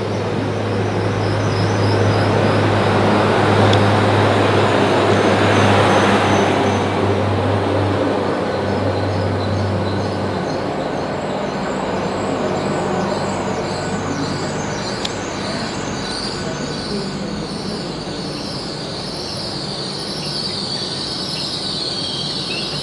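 GWR Hitachi Intercity Express Train rolling into the platform and slowing, loudest as the carriages pass. High, wavering squeals from the wheels and brakes run throughout, and a low steady hum cuts out about ten seconds in. Near the end the squeal slides down in pitch as the train comes to a stand.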